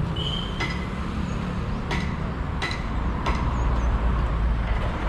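Steady road-traffic rumble with four sharp, briefly ringing metallic clinks spread over the first few seconds.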